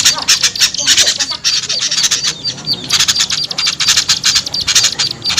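Bird-trapping lure recording of small songbirds chattering noisily: rapid harsh chips and scolding notes from several birds at once, many per second, with only brief dips.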